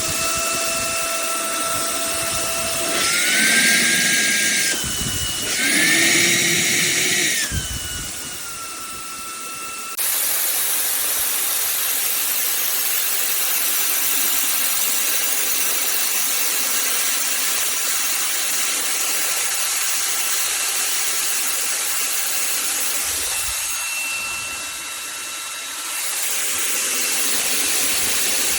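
Cordless handheld vacuum cleaner running: a motor whine that shifts in pitch and surges twice in the first few seconds, then settles into a steady rushing hiss of air.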